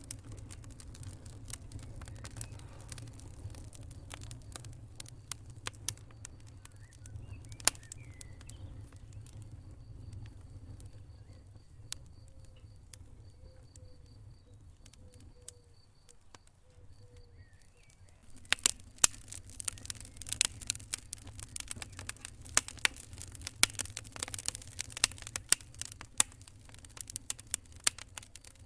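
Wood fire burning in a fireplace: a low, steady rumble of flame with scattered sharp pops and crackles. About two-thirds in, the crackling becomes dense and louder.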